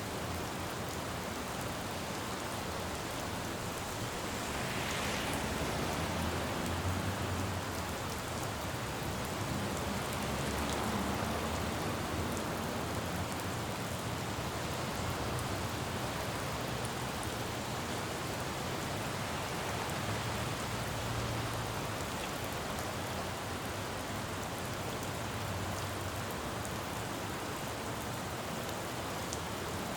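Steady rain falling on a city road, with vehicles passing on the wet pavement. The tyre hiss swells about five seconds in and again around eleven seconds.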